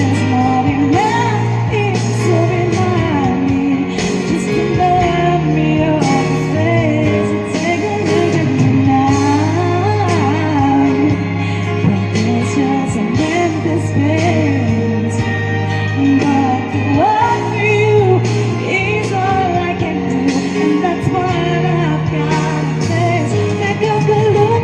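Pop ballad backing track under a singer's wordless, melismatic vocal runs that glide up and down in pitch.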